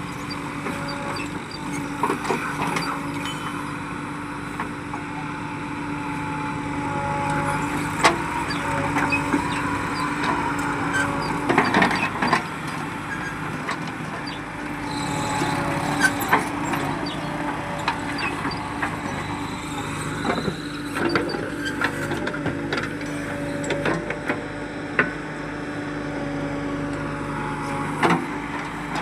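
Diesel engine of a heavy machine running steadily, with scattered sharp knocks and clanks over it.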